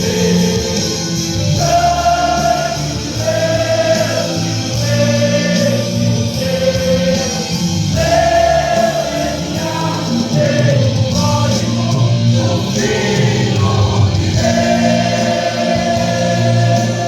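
Gospel music: a choir sings long held notes over a band accompaniment.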